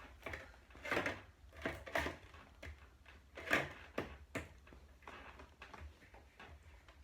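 Irregular small clicks and knocks of small toys and plastic pieces being handled on a tabletop, the clearest about one, two and three and a half seconds in.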